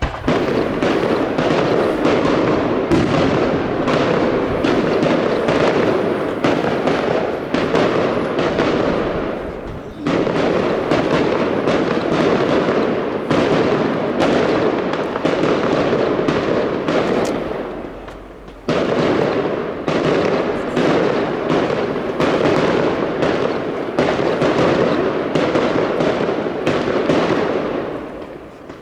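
Fireworks display: dense, rapid crackling and popping with bangs, nearly continuous. It fades briefly and starts up again suddenly twice, about a third of the way in and again past the middle.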